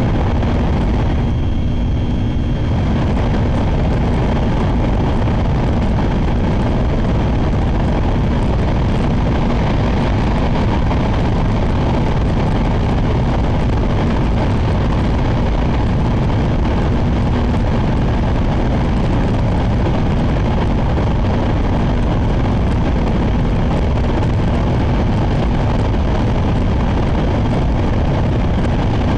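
Shinkansen train running at speed, heard from inside the passenger car: a steady low rumble and rush of running and wind noise. The higher hiss drops away briefly about two seconds in.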